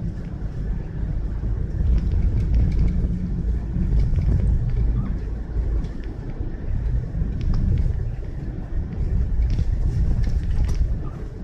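Low rumble of a car driving, rising and falling in waves, with scattered light ticks and taps.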